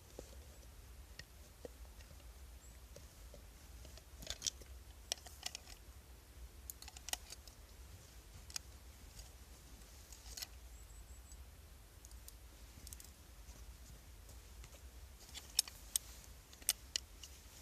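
Scattered sharp clicks and light taps, in small clusters with quiet stretches between, like small objects being handled and set down.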